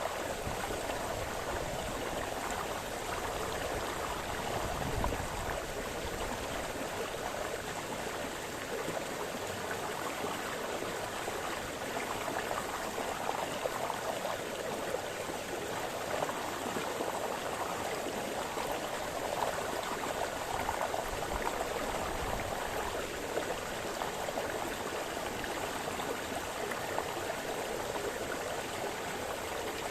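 A small stream splashing and burbling over stones, a steady rush of running water.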